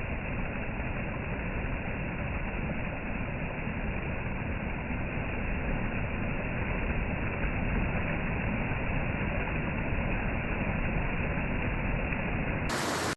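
Steady rush of a big waterfall: a constant, even roar of falling water that grows a little louder about halfway through.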